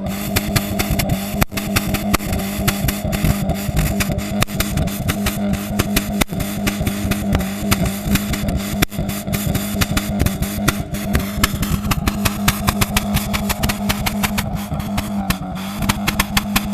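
Exhaust of a Mk2 car with a 1.8 ABS engine running at a steady speed, with rapid sharp crackling pops throughout.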